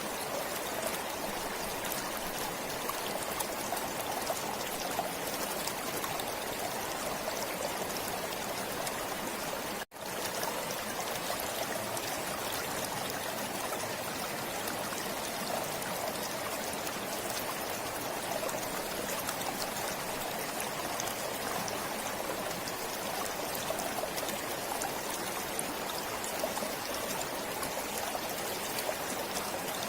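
Stream flowing steadily, an even rush of running water. About ten seconds in, the sound cuts out for a split second and comes straight back.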